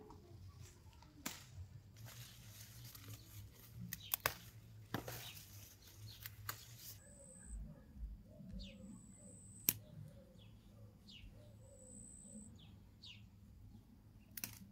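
A small bird chirping over and over in short, falling notes through the second half. A few sharp clicks and knocks are scattered through, and a rustling hiss lasts several seconds in the first half.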